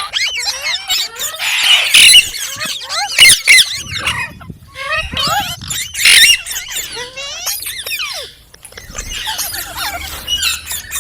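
Green parrot, an Indian ringneck (rose-ringed parakeet), chirping and squawking in rapid sliding calls, with a few louder shrill bursts about two, three and six seconds in.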